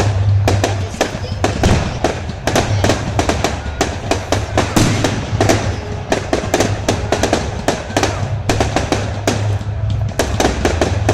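Fireworks going off in rapid, continuous succession: many sharp bangs and crackles close together, with no pause.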